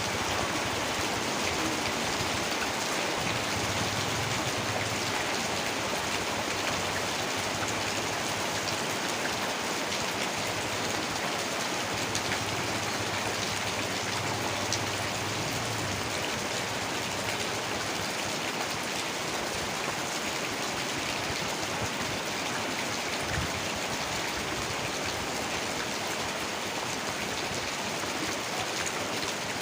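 Heavy rain falling steadily: a dense, even hiss of drops that holds without a break.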